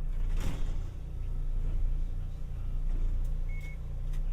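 Tokyu Setagaya Line 300 series light rail car running, heard from inside near its powered bogie: a steady low rumble of motor and wheels on rail, with a few sharp clicks and a brief high tone.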